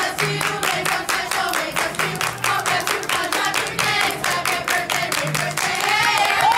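Rapid, even hand clapping, about five claps a second, along with music and singing voices.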